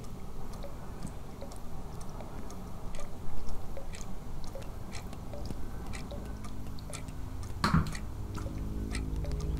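Water drops tapping in a scattered, irregular patter over a low rumble, a sound effect standing for heavy rain. A sustained low music chord comes in about six seconds in, and one louder hit sounds near eight seconds.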